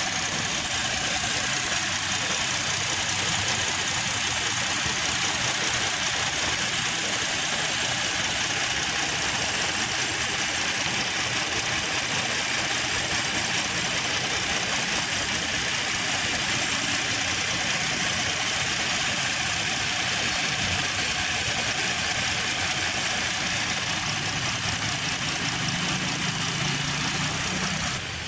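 Ford Explorer's 3.5-litre V6, freshly top-overhauled with resurfaced cylinder heads, idling steadily with its oil filler cap off.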